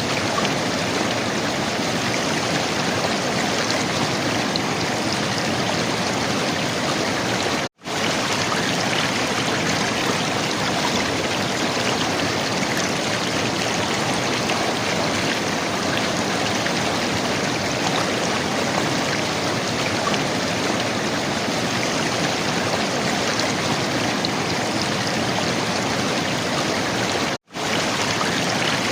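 River water gurgling and rushing in a steady, unbroken flow. The sound cuts out to silence for a split second twice, about 8 seconds in and near the end.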